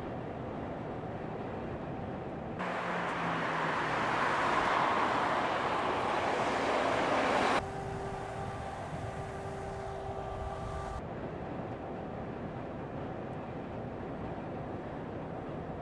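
Truck and road noise across several abruptly cut shots. A louder rushing pass runs from about a third of the way in to the middle, a few seconds of steady whining tones follow, then a lower steady rumble.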